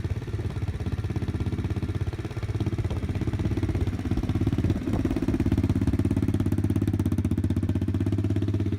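Single-cylinder engine of a Stomp WPB 125 pit bike running steadily at low revs, with a fast even pulse, running a little louder from about halfway through.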